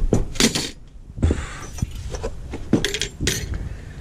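Metal tools or parts clinking and clattering as they are handled: a run of sharp separate clinks and knocks, several of them over a few seconds.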